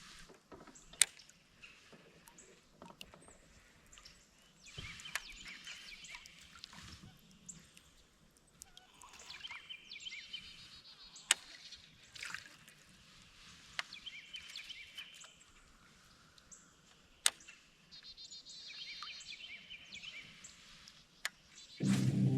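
A songbird singing short phrases of rapid repeated high notes every few seconds over faint flowing creek water, with a few sharp clicks.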